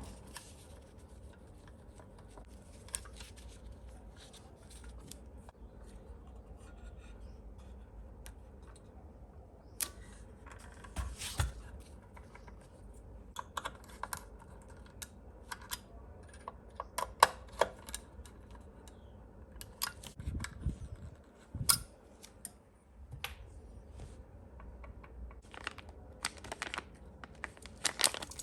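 Irregular light clicks and taps of small kit parts and hand tools being handled on a work surface, over a low steady hum.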